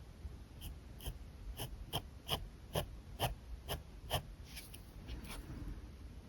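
Alcohol marker tip flicking quick, short strokes across paper, about two sharp scratches a second in a steady rhythm.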